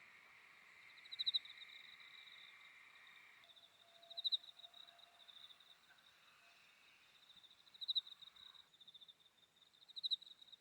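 Field insects trilling faintly in a steady high pulsing chirr, swelling louder four times, about every three seconds.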